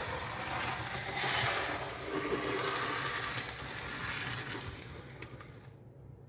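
Fleischmann model NS 1200 electric locomotive running along model railway track, its wheels clattering on the rails over a low motor hum, fading away about five seconds in.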